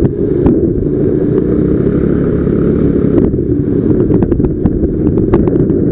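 Strong wind buffeting the microphone: a loud, steady low rumble, with a few faint clicks.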